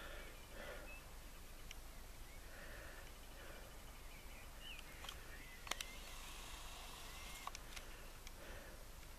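Quiet open-air countryside ambience with faint, scattered bird calls and a few sharp clicks, the loudest a little past the middle.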